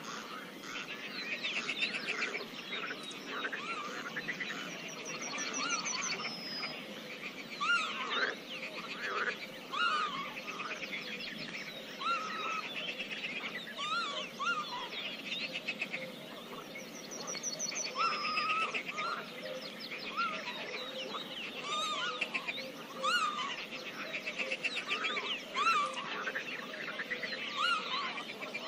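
Frogs calling in a dense, continuous chorus of short repeated calls, with birds singing over them. A rapid high trill comes twice, about six seconds in and again about seventeen seconds in.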